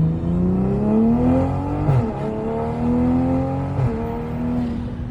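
Toyota Supra (A90) accelerating hard through an aftermarket valved exhaust with the valves open. The engine note climbs, drops sharply at an upshift about two seconds in, climbs again and drops at a second upshift near four seconds, then holds steady.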